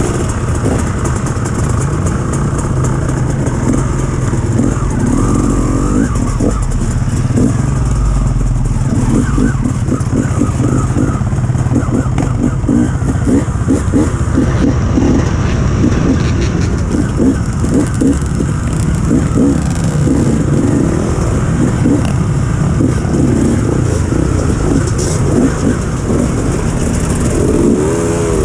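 Enduro dirt bike engine running under load, with revs rising and falling as it is ridden, and a climb in revs near the end.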